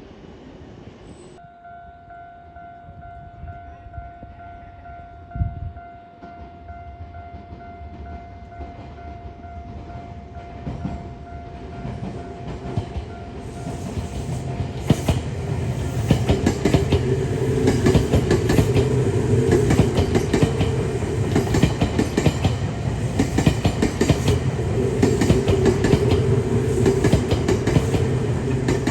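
Electric commuter train drawing near and running past, growing loud about halfway through, with the rapid clickety-clack of wheels over rail joints.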